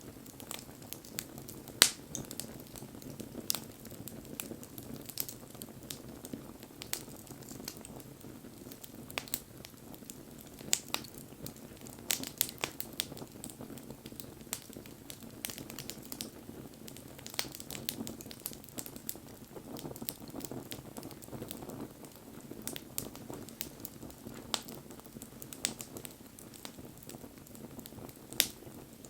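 Wood bonfire burning, with irregular sharp crackles and pops of burning wood over a low steady rush of flame.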